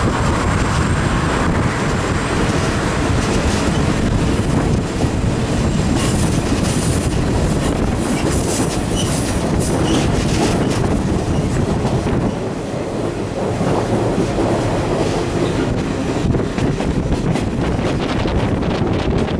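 Alaska Railroad passenger train rolling along a curving track, heard close from an open car window: steady wheel-and-rail rumble with wheel squeal and clattering. A run of sharp clicks starts about six seconds in.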